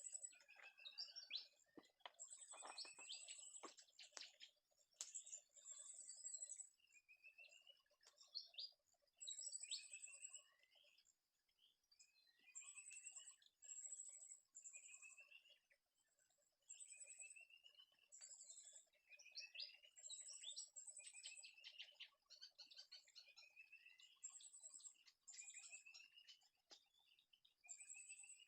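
Small forest birds chirping: short, high calls and quick rising and falling notes repeat every second or two, over a steady faint high-pitched hum. Some light clicks and rustling in the first few seconds.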